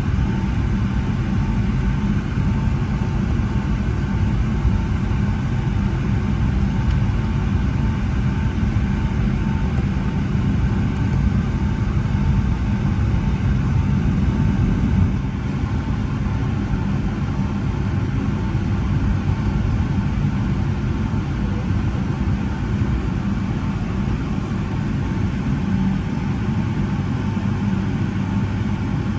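Boeing 757-200 engines at low power heard inside the cabin while taxiing: a steady low rumble with a faint steady whine above it, dipping slightly about halfway through.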